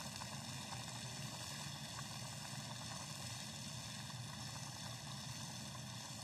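Cherry tomatoes and sliced chili frying in oil in a frying pan, a steady soft sizzle over a low hum.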